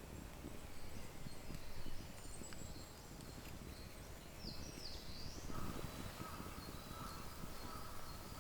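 Quiet forest ambience with faint bird calls: high chirps, two short falling ones about halfway through, then a lower drawn-out call that comes and goes in the last third.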